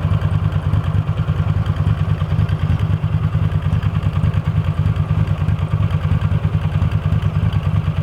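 Honda GL700's V-twin engine idling steadily, an even low exhaust pulse with no revving. At idle it smokes from the muffler, which the owner puts down to oil drawn down past the intake valves and worn valve stem seals.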